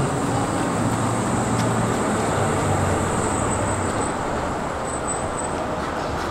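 Steady noise of a City Elephant (ČD class 471) double-deck electric train, with a low hum that fades about four seconds in.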